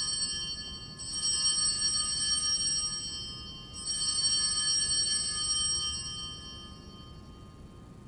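Altar bells (Sanctus bells) rung at the elevation of the host after the consecration, with ringing high tones: the tail of one ring fades, then the bells are shaken again about a second in and near four seconds in, each ring dying away slowly.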